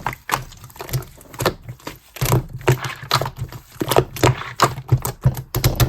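Slime being squeezed and kneaded by hand, giving quick, irregular sticky clicks and pops, several a second.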